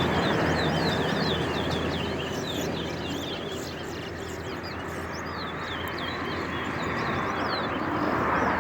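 Caged songbirds in a singing contest, chirping rapidly in many short, quick notes over a steady low background hum.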